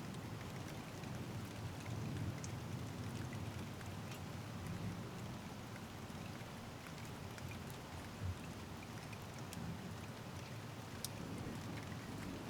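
Steady rain falling, with scattered individual drops ticking and a low, even rush. A single short low thump comes a little after eight seconds in.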